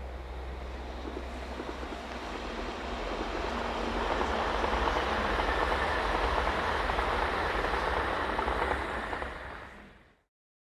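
E6 series Komachi Akita Shinkansen train running past, its rolling noise swelling over the first few seconds, staying loud for about five seconds, then fading away and cutting off near the end.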